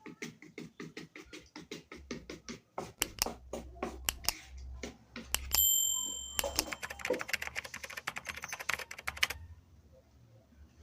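Rapid back-and-forth scraping strokes across a sharpening stone as its surface is dressed, about four strokes a second, with a short metallic ring about five and a half seconds in. The strokes then come faster and denser, and stop about a second before the end.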